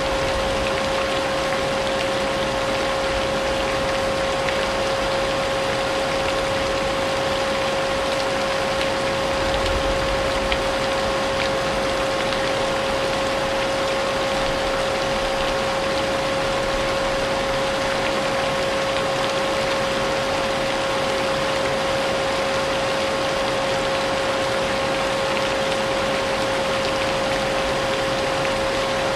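Vacuum cleaner running steadily, its motor holding one constant whine, mixed with a steady hiss of rain.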